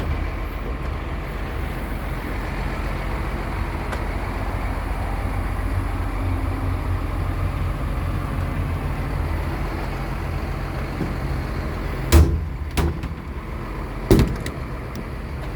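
Two sharp metal bangs about two seconds apart near the end, typical of a truck's service-body compartment door being shut, over a steady low rumble.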